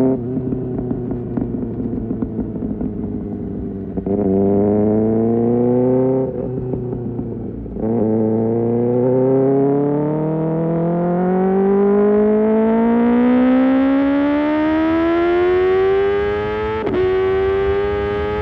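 Kawasaki ZX-6R inline-four through an Arrow Pro Race exhaust, accelerating: the engine note rises, breaks off briefly about six seconds in, then climbs steadily in revs for several seconds. Near the end a sharp click comes with a drop in pitch as the next gear goes in.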